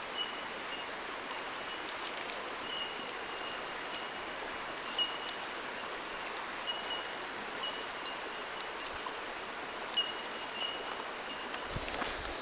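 Steady rushing of flowing water. A faint short high chirp recurs irregularly every second or two.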